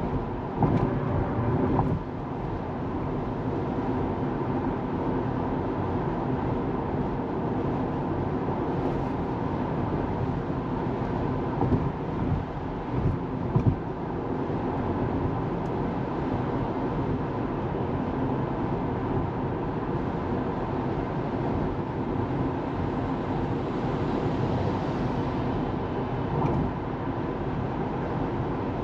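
Steady tyre and road noise of an electric Tesla Model 3 driving, with no engine sound, broken by a few brief bumps about a second in and again about halfway through.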